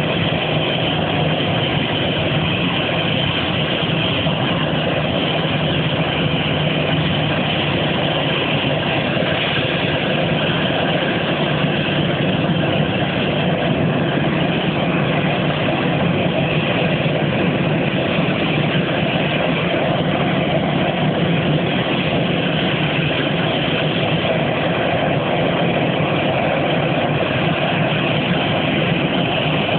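Airbus A319's CFM56-5B turbofan engine running at a steady setting, a continuous loud, unchanging engine noise.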